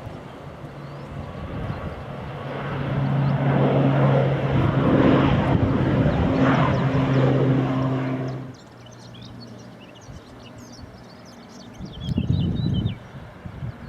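An airliner passing close by: a rising rush of engine noise with a steady low drone, loudest around four to eight seconds in, which cuts off abruptly about eight and a half seconds in. Afterwards short high chirps and a couple of low rumbles.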